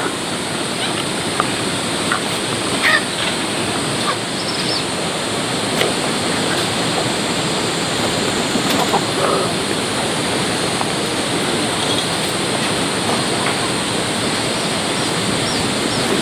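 Steady downpour of heavy rain, an even hiss that does not let up.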